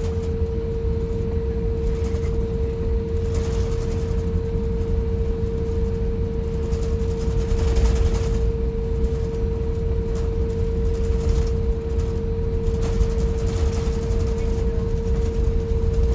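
Airbus A350-1000 cabin noise on the ground after landing: a steady low rumble with a constant hum, and a few brief rattles.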